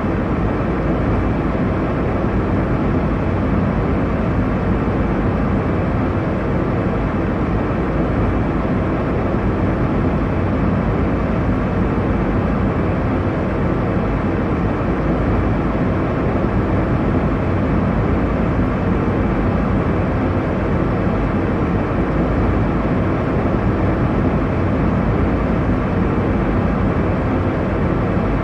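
Airliner cabin noise in cruise: a steady, even rush of engine and airflow noise, deepest in the low end, with no changes.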